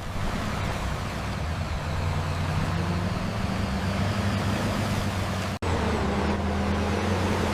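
Heavy dump truck's diesel engine running steadily at a low, even pitch. The sound drops out for an instant about five and a half seconds in, then carries on the same.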